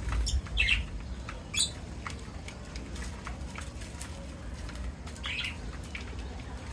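Indian ringneck parrots give a few short squawks, two close together in the first couple of seconds and one more about five seconds in, over scattered small clicks and taps.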